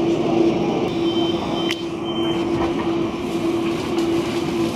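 Electric passenger train running along the track, heard from inside the carriage: a steady rumble with a constant hum at one pitch. A faint high whistle comes and goes in the first half, with a single click.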